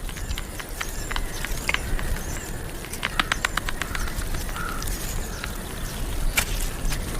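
Birds at a white stork nest: short high chirps and scattered sharp clicks, with a quick run of about a dozen clicks a little after three seconds in. The chicks are hungry and begging for food.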